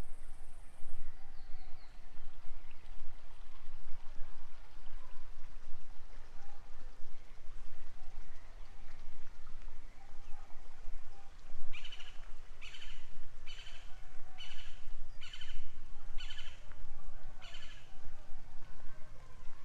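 Forest ambience over a steady low rumble. A high, steady insect buzz fades out about a second in, and from about twelve seconds in a bird gives seven short, evenly spaced calls, a little under one a second.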